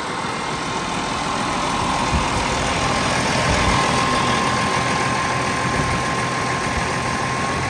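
An engine running steadily, with a thin steady whine over it.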